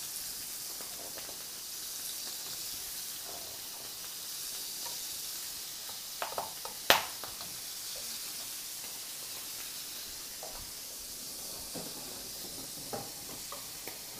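Scallops searing in hot oil in a frying pan, a steady sizzle, left unstirred so they sear rather than stew in their own juice. A sharp click about seven seconds in is the loudest sound, with a few fainter ticks around it and near the end.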